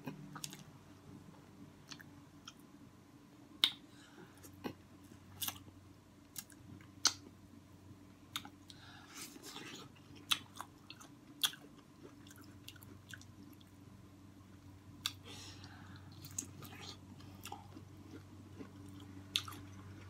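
A person eating soft boiled potatoes soaked in seafood-boil sauce: close-up chewing with wet lip smacks and sharp mouth clicks every second or so, over a faint steady hum.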